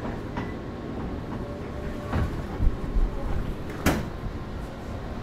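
Ryutetsu 5000 series electric train heard from on board as it approaches its terminus: a steady low rumble with several sharp clunks and knocks, the loudest just before four seconds in.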